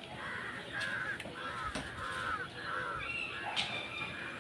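A bird calling in a quick run of harsh, caw-like calls that stops about two and a half seconds in, with a few sharp clicks and a brief thin whistle-like tone near the end.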